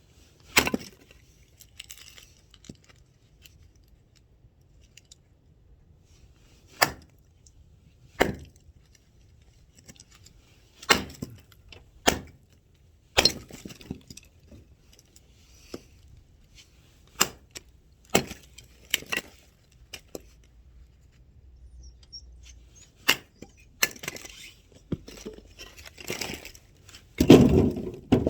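Axe chopping firewood: about a dozen sharp strikes into the wood, spaced irregularly a second to several seconds apart, with a longer, denser clatter of wood near the end.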